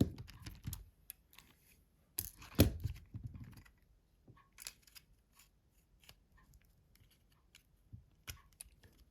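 Small clicks, taps and scrapes of a Nokia C2-06 mobile phone's plastic housing and parts being handled and pried during disassembly. There is a louder knock about two and a half seconds in, then scattered lighter clicks.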